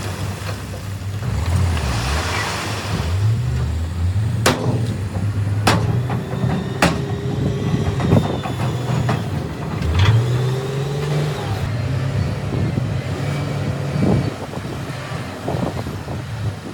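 Heavy earthmoving machine's diesel engine running and revving up and down, with several sharp metallic clanks, and a rushing hiss about two seconds in.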